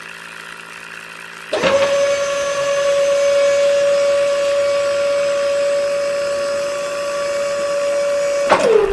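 Small electric motor switched on about a second and a half in, whining steadily at high speed, then winding down with a falling pitch near the end.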